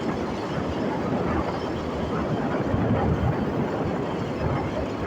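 Motorcycle riding noise: steady wind buffeting on the microphone over engine and road noise.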